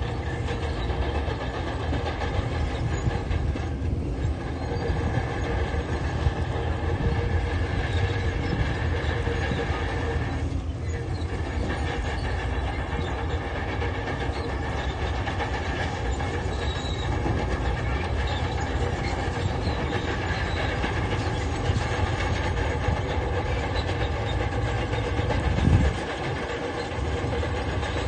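Tracked heavy machinery at work: a diesel engine running under load with the steady clatter of steel crawler tracks. There is one sharp knock near the end.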